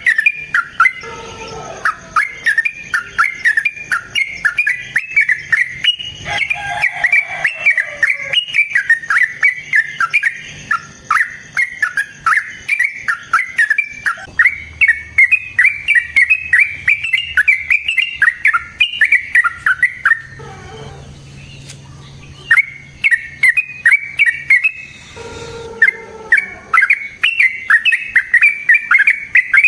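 Yellow-vented bulbul singing a long, rapid run of short repeated notes, broken by two brief pauses about twenty and twenty-five seconds in.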